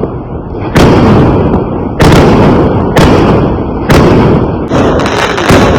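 Fireworks going off in a steady series of loud bangs, about one a second, each followed by a rolling rumble that fades before the next.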